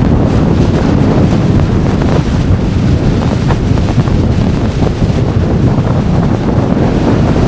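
Storm-force blizzard wind buffeting the microphone: a loud, steady low roar with no let-up.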